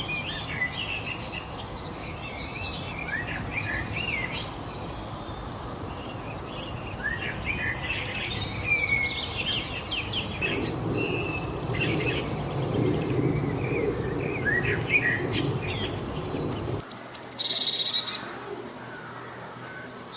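Several songbirds singing and chirping, many quick overlapping chirps and trills, over a steady rushing background. The background stops abruptly about three seconds before the end, and a short, loud call follows.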